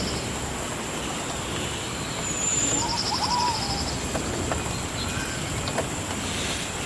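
Rainforest ambience: a steady, high, thin drone and an even hiss. A pulsing trill and a few short chirps of birds come about two to three seconds in.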